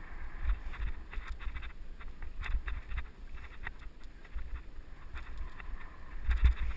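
Riding noise from a mountain bike heard through a helmet-mounted GoPro: wind buffeting the microphone in low gusts, the tyres running over the trail, and frequent short clicks and rattles from the bike.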